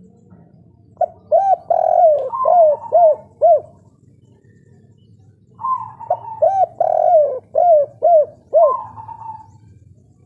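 Spotted dove cooing two song phrases, one about a second in and one near the middle. Each phrase is a string of short cooing notes with one longer drawn-out note, followed by three short 'kuk' notes, the 'kuk 3' song type.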